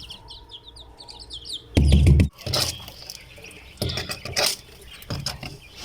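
Small birds chirping: a quick run of short falling chirps in the first second, then scattered chirps. A loud, short low thud about two seconds in.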